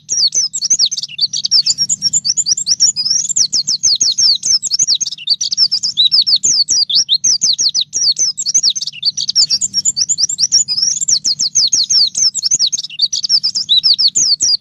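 White-eye (pleci) singing: a continuous, fast stream of high, rapidly repeated chirping and trilling notes with no pauses.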